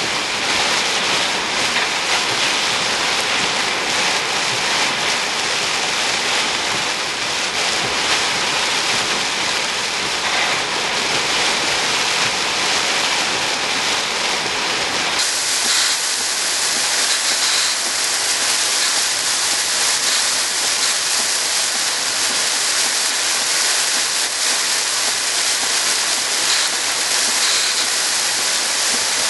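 Steady rushing hiss of storm rain. About halfway through, the low rumble underneath cuts off suddenly and the hiss turns brighter.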